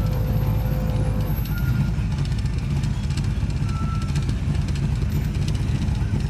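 Car engine and road noise while driving, a steady low rumble.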